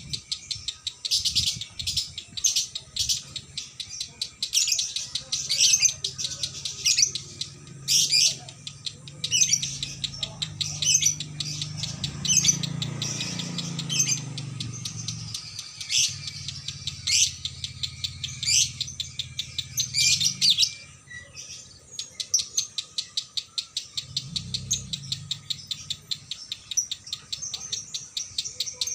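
Lovebird singing a long, rapid, chattering string of high chirps, the continuous 'konslet' song prized by Indonesian lovebird keepers, with one short break about two-thirds of the way through.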